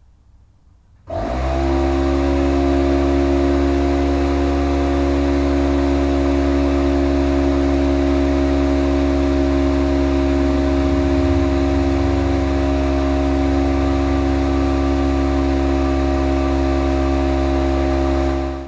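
Air compressor motor starting about a second in with a quick spin-up, then running with a loud, steady hum to charge the air supply for a pneumatic grease gun, and cutting off abruptly at the end.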